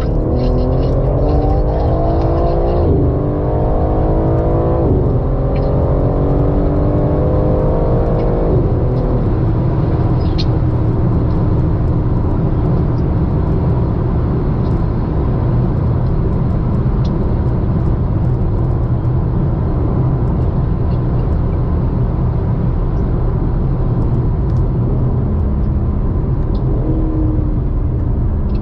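Car engine heard from inside the cabin, accelerating through the gears: its pitch climbs and drops back at three upshifts within the first nine seconds or so, then settles into a steady low drone of engine and tyre noise at cruising speed.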